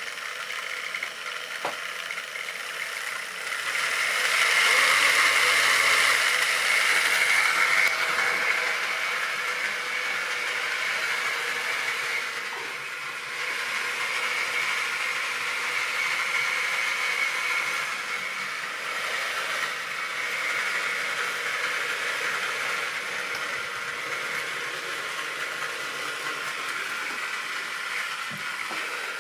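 Model railway train running on the track: a steady electric motor hum with the rattle of small wheels on rails, getting louder about four seconds in for a few seconds as it passes closest, then running on evenly.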